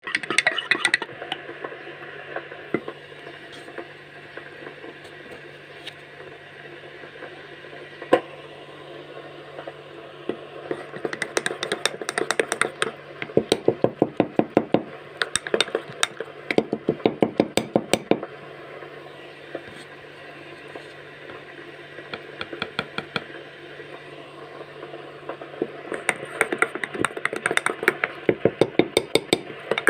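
Runs of rapid, sharp taps or clicks, several seconds each, with a single loud knock about eight seconds in, over a steady low hum.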